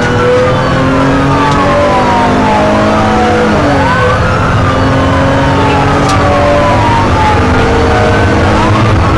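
Several police sirens wailing at once, their slow rising and falling tones overlapping out of step, over a steady low engine and road rumble.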